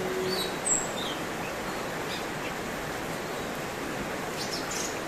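Steady hiss of outdoor ambience, like running water, with a few faint, short, high bird chirps in the first second and again near the end.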